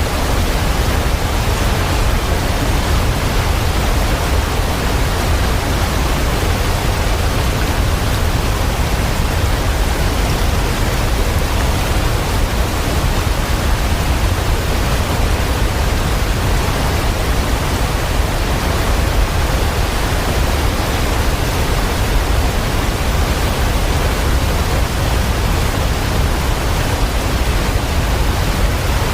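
Steady, unchanging rush of heavy falling water, heaviest in the deep low end, with no separate drops or changes.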